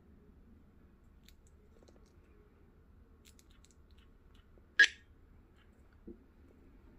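Light handling clicks: a few faint ticks, then one sharp click near the middle and a softer knock about a second later.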